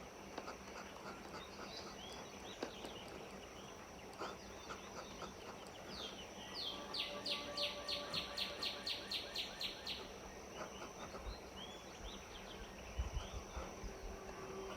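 Birds chirping in the background, with one bird giving a fast trill of about four evenly repeated notes a second for some three seconds midway.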